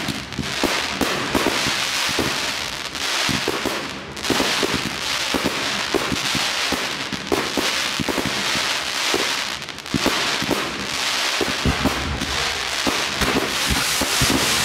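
Fireworks display: a dense, continuous crackle of bursting shells with many sharp bangs in among it, easing for a moment a few times before building again.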